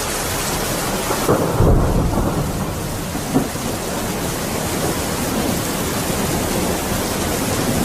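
Heavy rain pouring steadily. About a second and a half in there is a brief low rumble, and a short sharp knock comes at about three and a half seconds.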